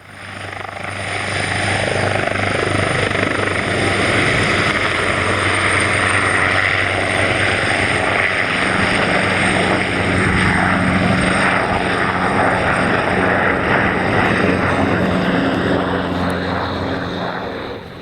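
Coastguard search-and-rescue helicopter flying close by, a loud, steady rotor and engine noise that builds up over the first couple of seconds and dies away near the end.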